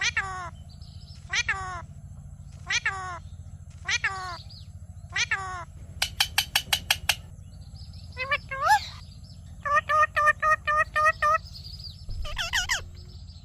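Indian ringneck parrot calling: five similar falling squawks about every second and a quarter, then a quick run of sharp clicking notes and bursts of rapid chatter, with one more call near the end.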